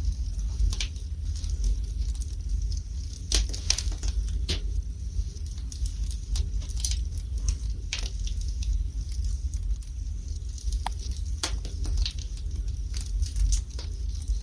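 Wood fire burning in a fireplace, crackling with irregular sharp pops of varying loudness over a steady low rumble.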